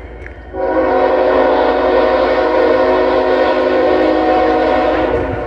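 Freight locomotive air horn sounding one long blast, a chord of several steady tones, starting about half a second in and cutting off near the end.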